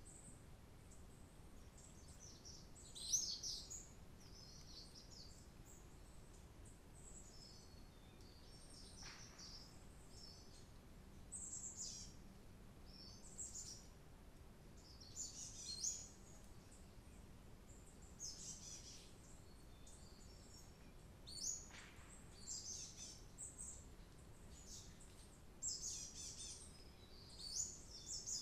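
Small songbirds chirping in short, high phrases every couple of seconds, over a faint steady low background hum.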